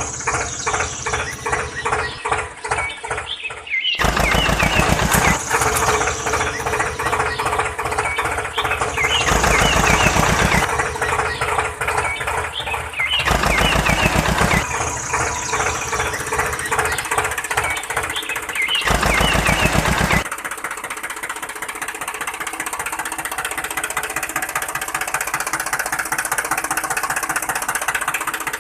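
A small engine running with a fast, even knocking. It grows louder in several stretches of a second or two, then settles steadier and quieter about twenty seconds in.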